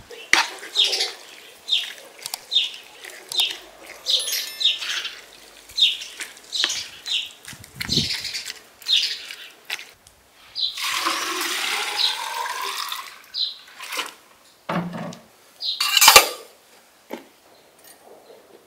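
A small bird chirps over and over, a short falling call about once a second. About eleven seconds in, water is poured from a plastic jug into a samovar for a couple of seconds, rising in pitch as the vessel fills. A few metal clanks follow, one of them loud.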